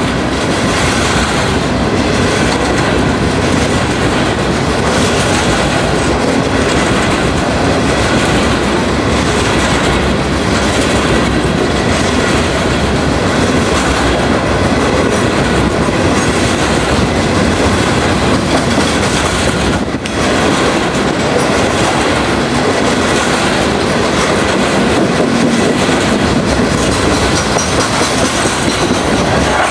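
Freight train of covered hopper cars rolling past, the steel wheels on the rails making a steady, loud running noise, with one short dip about twenty seconds in.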